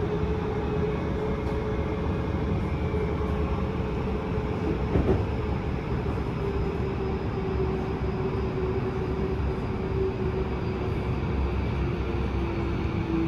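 Yokosuka Line electric commuter train running, heard from inside the carriage: a steady rumble of wheels on rail with a held hum that drops a little in pitch twice. There is a single knock about five seconds in.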